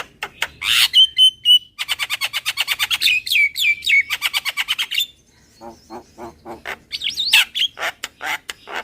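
Javan myna calling: harsh chattering notes and a short whistle, then a fast rattling run of about ten notes a second, then scattered harsh calls after a brief pause. This is a recording used as a lure call.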